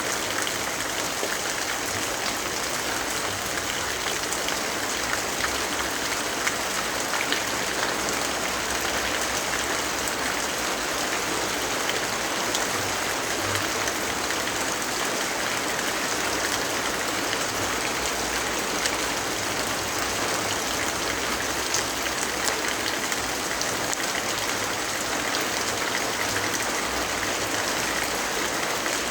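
Steady rainfall, an even hiss with scattered small drip ticks.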